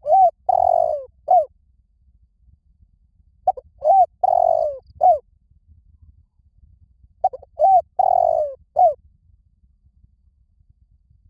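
Spotted dove cooing: three phrases of several low coos each, repeating about every three and a half seconds. It is the call used as a decoy to draw wild spotted doves in.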